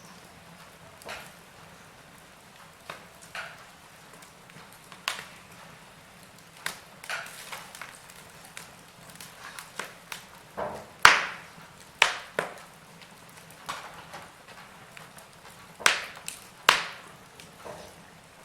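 Wood fire burning in a fireplace, crackling with irregular sharp pops. The loudest pop comes about eleven seconds in, and a few more strong ones follow near the end.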